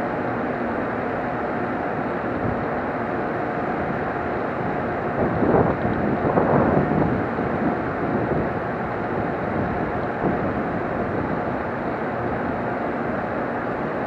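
A JR Kyushu 787-series electric train standing at the platform, its onboard equipment running with a steady hum and rush. A louder, rougher stretch swells about five seconds in and fades by eight.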